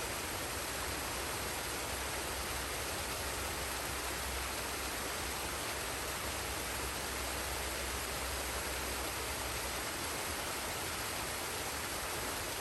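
Waterfall and stream water rushing steadily, a constant even hiss without any distinct splashes or other sounds.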